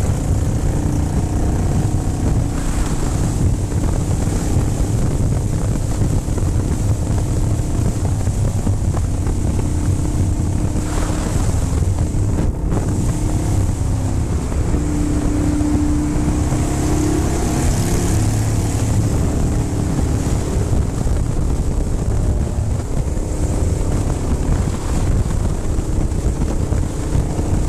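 Motorcycle running at road speed, a steady engine drone under heavy wind rush on the microphone.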